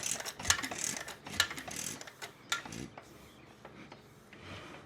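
Irregular clicking and clattering from the mechanism of a 1929 International Type M 1.5 hp hit-and-miss engine as it turns over without firing, the clicks thinning out and fading after about two and a half seconds. The owner puts the failure to fire down to the new fuel pump not pumping.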